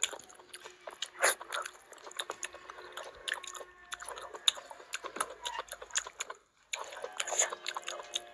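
Close-miked wet chewing and smacking of curry and rice eaten by hand, full of small mouth clicks, with squelching as fingers work through the rice. It drops out briefly a little after six seconds.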